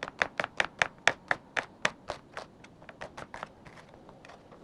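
Kitchen knife slicing an onion on a cutting board: quick, even chops about four a second, loudest for the first two seconds, then lighter.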